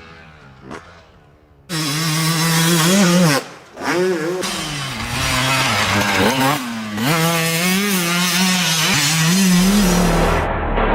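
Two-stroke motocross bike engine, ringing and high-pitched, revving hard about two seconds in. The throttle is worked up and down in quick surges, with a brief let-off after about three and a half seconds before it picks up again.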